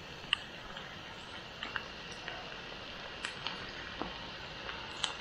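Chopped carrots and onions frying in oil in a pan: a steady sizzle with a few scattered sharp crackles.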